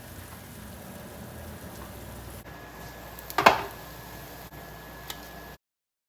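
A single sharp knock or clink over a faint steady hum, about three and a half seconds in, with a smaller tick a little later; then the sound cuts off to silence.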